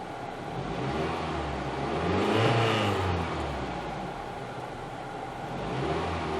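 1999 Toyota Celica's four-cylinder engine being revved: the pitch climbs to a peak about two and a half seconds in, falls back toward idle, and starts rising again near the end.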